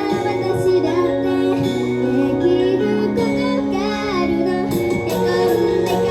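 A female pop singer singing live over a backing track, with the melody held on long wavering notes over a steady accompaniment.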